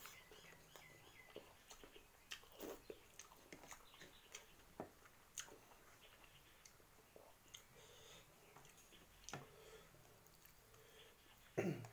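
Faint chewing and mouth sounds of someone eating rice and fried Maggi noodles with egg by hand, with scattered soft smacks and clicks. A louder, brief sound comes just before the end.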